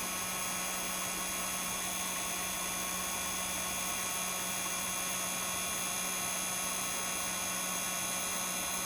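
Heat gun blowing steadily, a level hiss with a faint whine in it, warming the phone to soften the adhesive under the fingerprint sensor cable.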